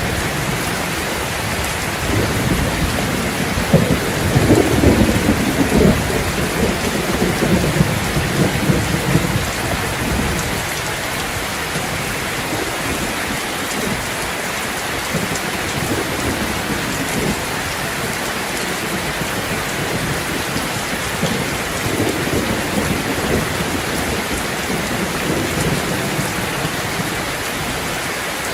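Steady heavy rain falling, with a low roll of thunder swelling and fading a few seconds in and a fainter one later.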